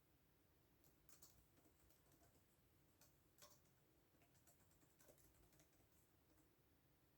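Faint, scattered keystrokes on a computer keyboard: a few irregular clicks with short pauses between them.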